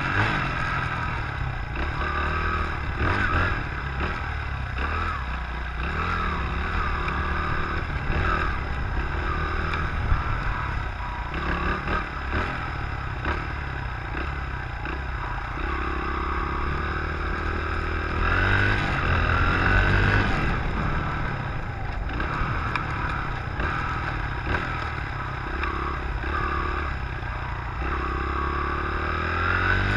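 Dirt bike engine running under way, rising and falling with the throttle, with clear revving up in pitch about two-thirds of the way through and again near the end.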